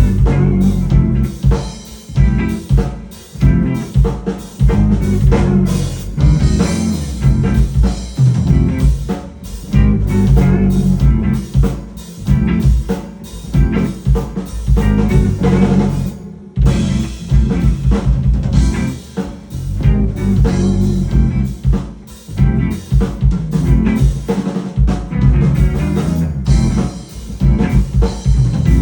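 A rock band playing live: drum kit and guitars with a steady, dense beat, breaking off briefly about halfway through before coming back in.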